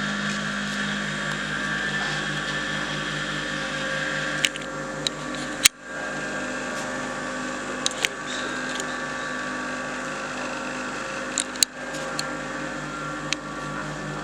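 Steady mechanical hum with a regular pulsing beat underneath, broken by a few sharp clicks.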